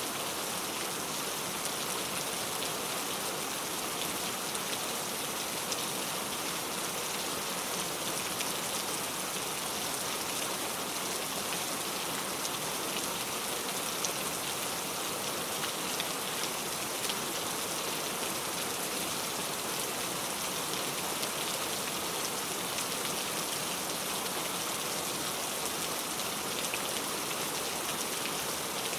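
Heavy rain falling steadily, a dense even hiss of drops with faint scattered patters of individual drops.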